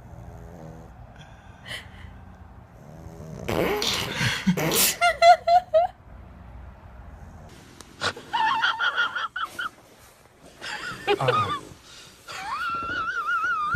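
A dog whining: a breathy snort-like burst, then several high, wavering whines that come and go.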